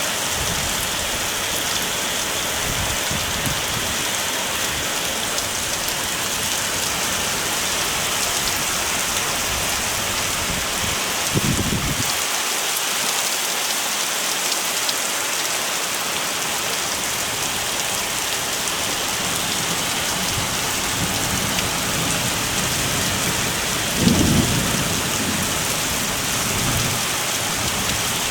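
Heavy rain falling in a steady, even hiss. Two brief low thuds break through, one about halfway and a louder one near the end.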